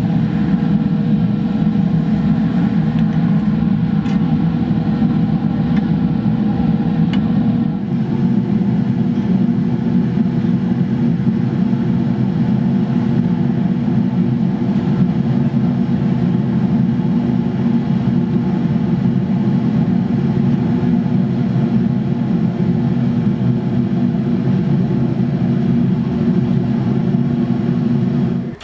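A motor-driven machine running steadily with a loud, even drone and a constant hum. Its tone shifts slightly about eight seconds in, and it cuts off abruptly at the end.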